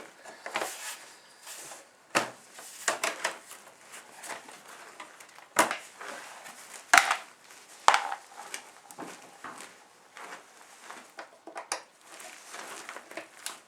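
Irregular metallic clicks, clinks and knocks of a 10 mm wrench working the bolts and cover off a 2003 Suzuki DR-Z125 dirt bike, with a few sharper knocks around the middle.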